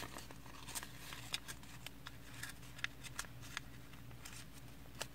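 Sheet of paper being folded and creased by hand: irregular light crinkles and soft taps, over a steady low hum.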